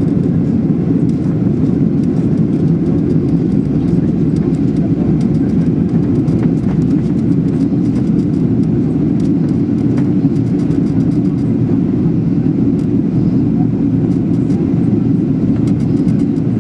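Steady engine and airflow noise inside the cabin of a Boeing 737-800 in flight, an even, low-pitched rumble with no change in level.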